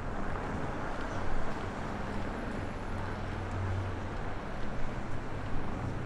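Strong blizzard wind buffeting the microphone, a steady rushing noise with heavy low rumble that the windshield fails to block.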